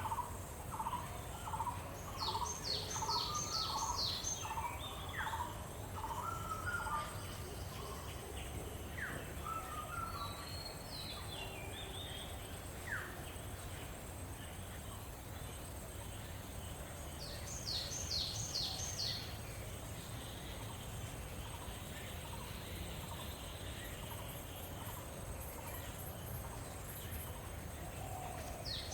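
Birds calling in the open with a steady high insect hum behind. A mid-pitched note repeats about twice a second for the first several seconds, and a short quick run of about five high notes comes three times.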